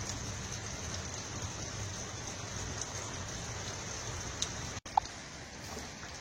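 Steady rain with a low rumble underneath. A momentary dropout comes a little under five seconds in, followed by a brief click.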